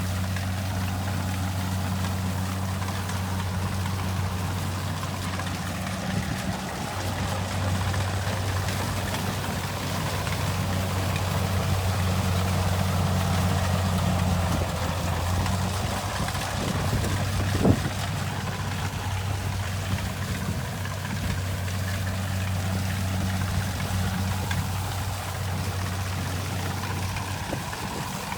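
Kubota rice combine harvester running: a steady engine hum with a rushing mechanical noise over it, and a single sharp knock about two-thirds of the way through.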